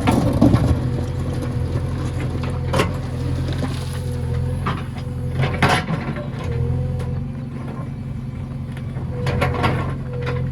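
JCB 3DX backhoe loader's diesel engine running steadily, with a few sharp knocks from the machine.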